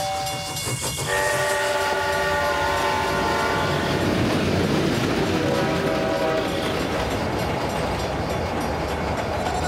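A train running, with a horn holding a chord of several steady tones from about a second in, and another chord a few seconds later.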